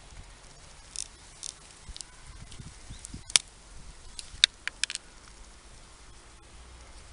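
Hand tools being handled and worked: light rustling, then a sharp click about three and a half seconds in and a quick run of three or four sharp clicks a second later.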